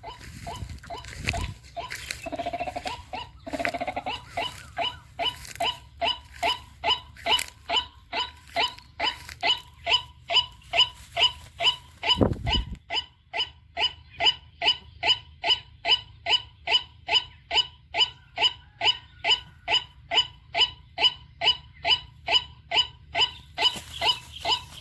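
White-breasted waterhen calling: a steady, rapid series of short repeated notes, about two and a half a second, growing louder after the first few seconds. A low thump comes about twelve seconds in.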